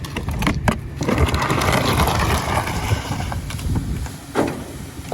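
Tree branches cracking and crunching as a garbage truck's packer compacts a load of limbs, over the low rumble of the truck's engine. Sharp snaps come about half a second in and again near the end, with a longer stretch of dense crunching in between.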